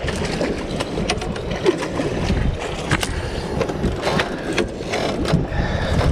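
Irregular knocks, clatters and scrapes against a steady rushing noise, as a netted bat ray is handled on a small boat.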